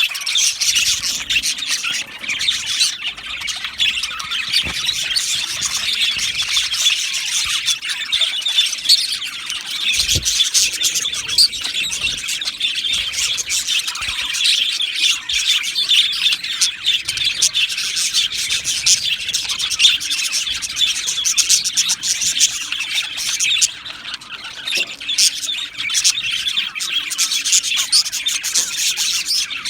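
A colony of budgerigars chirping and chattering together, many birds at once in a continuous twittering with scattered squawks.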